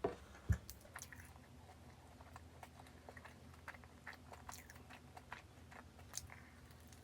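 A person biting into and chewing a matcha cruffin, a flaky croissant-muffin pastry, close to the microphone. Two louder bites come in the first half-second, followed by many small crisp crunches and mouth clicks as it is chewed.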